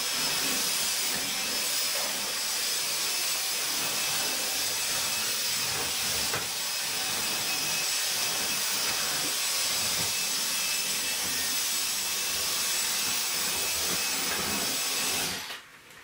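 Vacuum cleaner running steadily with a high whine, switched off near the end.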